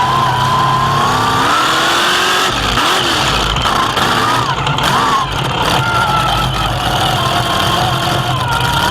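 Pro Mega Truck engine running under throttle: the revs climb over the first couple of seconds, rise and fall briefly a few times, then settle to a steadier pitch, over a constant rumble of driving noise.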